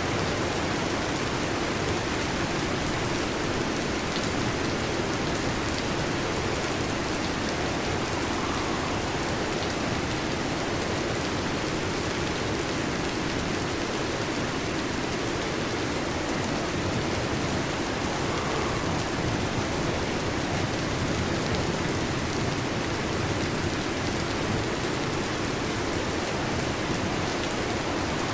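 Heavy rain falling steadily on a metal roof, an even, unbroken patter.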